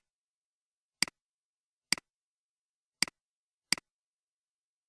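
Computer mouse clicks: about five separate clicks spaced roughly a second apart, each a sharp tick with a fainter second tick just after, as the button is pressed and released.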